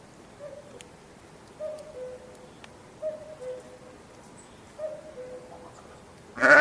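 A bird's soft two-note coo, each call stepping down in pitch, repeated four times at intervals of a second or more. Near the end a loud bleat breaks in.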